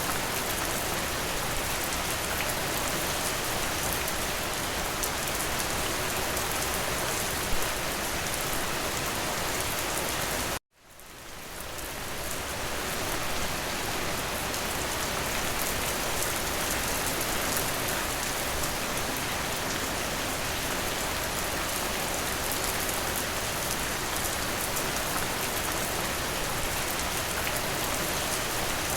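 Steady rain falling, an even hiss of drops. About ten seconds in it cuts out abruptly to silence, then fades back up to the same steady rain over a couple of seconds.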